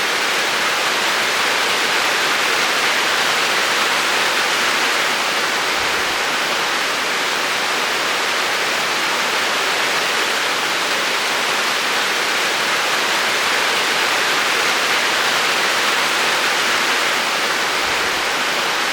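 Steady heavy rain falling, a dense even hiss without let-up.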